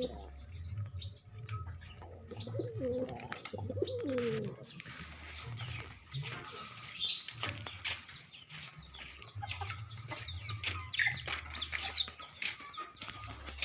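Domestic pigeons cooing repeatedly, with wing flaps and some short high chirps.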